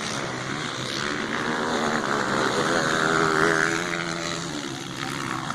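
Motocross bike engine revving up, its pitch rising and loudest about three and a half seconds in, then falling away.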